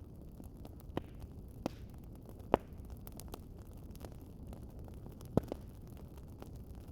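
Wood fire crackling in a fireplace: a steady low rumble of burning, with scattered sharp pops and snaps. The loudest pops come about two and a half seconds in and again about five and a half seconds in.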